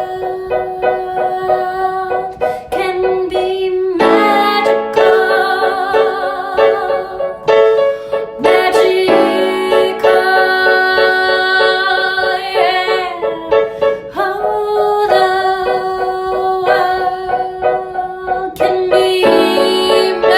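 Solo piano music: chords struck every few seconds and left to ring.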